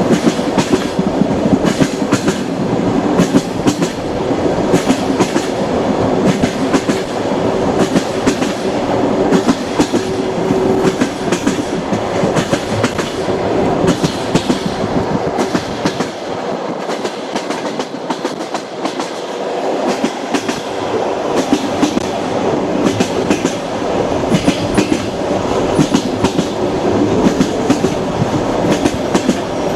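Train wheels running on the rails: a steady rumble with frequent clicks and knocks from the rail joints.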